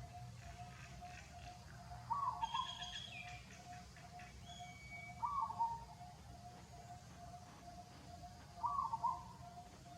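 Birds calling: a short falling call sounds three times, about three seconds apart, over a steady run of quick, even notes, about three a second, with a few higher chirps in between.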